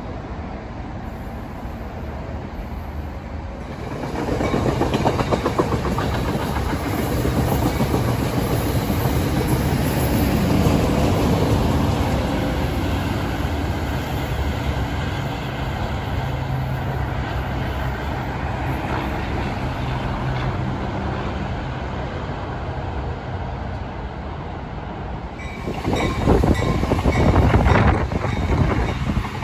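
A commuter train passing through the station, with a steady low engine note and wheel clatter. It gets loud about four seconds in, stays loud, then swells again near the end.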